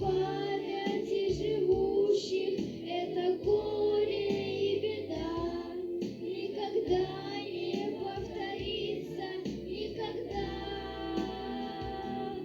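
A song: a high singing voice with melodic, held notes over instrumental backing music.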